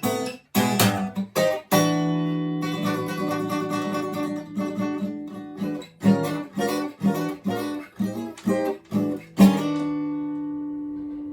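Acoustic flattop guitar (Amrita Custom F-Model) fingerpicked in a blues: a run of plucked notes and bass, then a chord struck near the end, left ringing and slowly fading.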